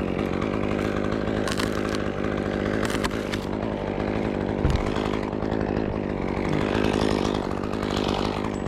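Chainsaw engine running steadily with no let-up, with a few light clicks and a single low thump about halfway through.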